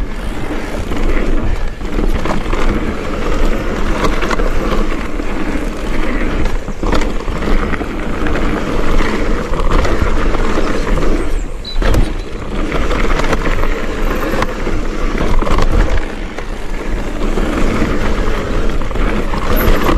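Mountain bike riding fast along a dirt trail, heard from the rider: a steady rush of wind and tyre noise with a low rumble and occasional sharp knocks as the bike hits bumps.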